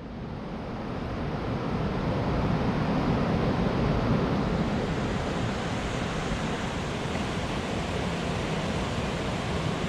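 Steady rush of river water, fading in over the first two seconds and then holding even.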